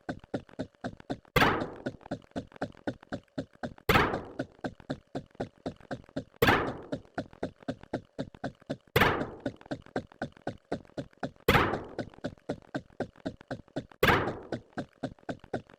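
A looping sound effect: a heavy thunk about every two and a half seconds, each with a short fading tail, and a fast run of quieter clicks, about ten a second, between the thunks.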